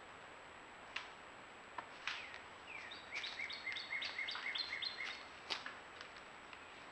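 A bird singing a quick run of short, repeated, slurred notes, about four a second for roughly two seconds, over a steady background hiss, with a few sharp clicks.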